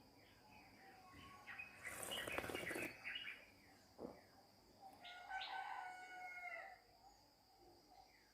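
Faint bird calls: scattered short chirps, and one longer held call of about a second and a half, about five seconds in, that drops in pitch at its end. A brief rustling noise comes about two seconds in.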